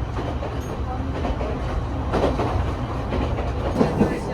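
Two-car local train running, heard from inside the car: a steady low rumble with wheels clacking over rail joints, and a couple of sharper knocks near the end.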